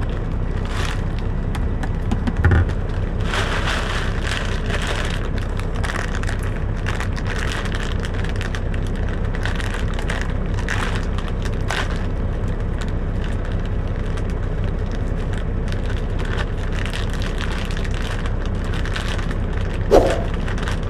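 Plastic bag of fruit being handled and crinkled in irregular crackles, with a thump about two and a half seconds in, over a steady low hum.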